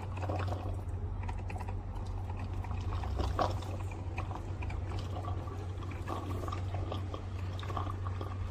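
Portable mini coffee machine brewing: a steady low pump hum with liquid sputtering and crackling as coffee comes through.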